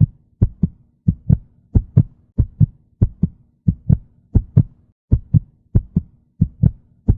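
Heartbeat sound effect: steady lub-dub double thumps, about one and a half beats a second, over a faint steady hum.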